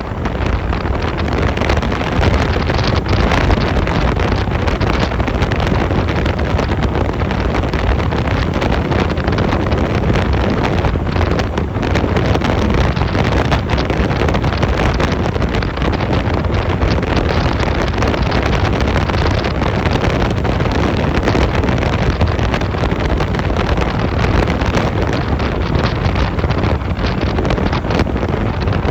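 Heavy wind buffeting the microphone on a moving Honda 250cc motorcycle, with the engine running underneath, steady throughout.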